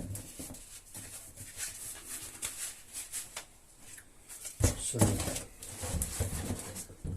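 Light handling noises: scattered small clicks and rustles, with a louder stretch of knocks and rustling about four and a half seconds in.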